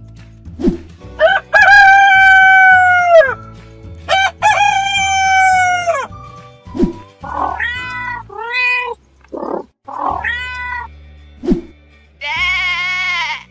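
Animal sound effects over background music: two long rooster crows, then several cat meows, then a sheep bleat near the end.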